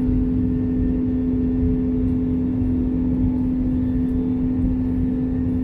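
Airliner cabin noise in flight: a steady engine and airflow rumble with a constant low hum.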